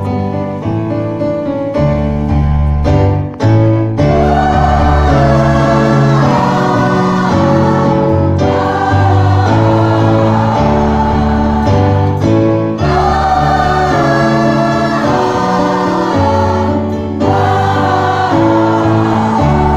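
Choir singing a Christian hymn in parts over steady instrumental accompaniment, the voices coming in about four seconds in after the accompaniment plays alone.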